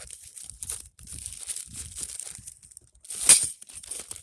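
Packaging crinkling and rustling as parts of a diesel heater kit are handled and put back, with a louder, sharper rustle about three seconds in.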